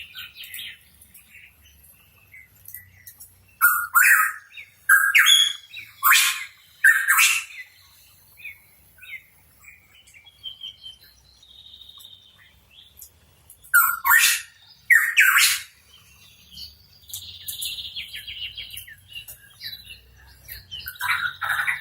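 Pitohui calling: loud harsh calls, four in quick succession about four seconds in and two more about fourteen seconds in, with softer chattering and short whistles between them.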